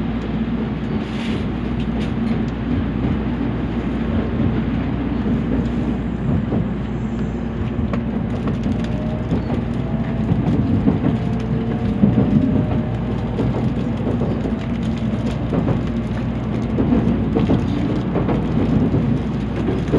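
N700 series Shinkansen running, heard inside a passenger car: a steady low rumble of the wheels and running gear with a rushing noise. Partway through, a faint rising whine comes in over the rumble.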